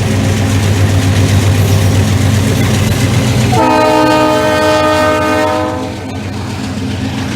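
ND5 (GE C36-7) diesel locomotive running with a steady low rumble, then about halfway through its air horn sounds one chord of several notes for about two seconds.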